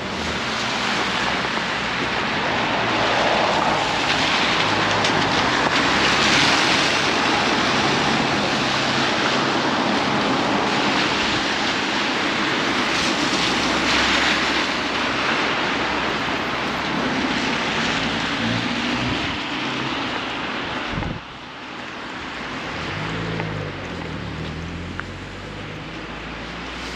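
Strong blizzard wind blowing in gusts and buffeting the microphone as a loud rushing noise. It swells twice and drops off suddenly late on.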